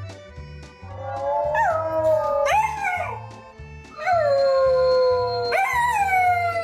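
A dog howling: several long howls, each jumping up in pitch and then sliding slowly down. Background music with a steady beat plays underneath.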